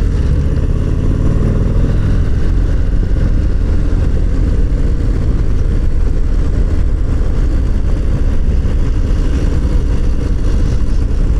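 Harley-Davidson Low Rider ST's Milwaukee-Eight 117 V-twin engine running steadily while the motorcycle is ridden along the road.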